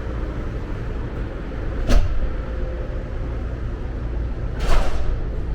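Steady low rumble of a moving vehicle, with two sharp clunks about three seconds apart.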